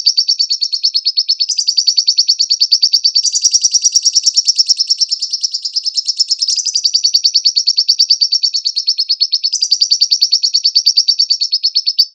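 Lovebird singing one long, rapid, high-pitched chattering trill (the 'ngekek' used as masteran), stepping slightly up or down in pitch every second or two, then cutting off suddenly near the end.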